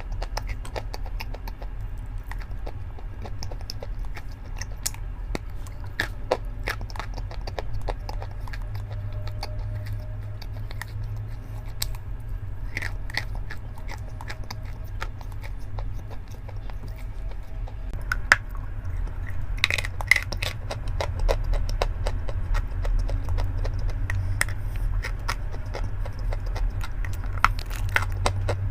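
Close-up chewing and crunching of chalk and clay: irregular sharp crunches and wet clicks over a steady low rumble, with a burst of louder crunches about two-thirds of the way through.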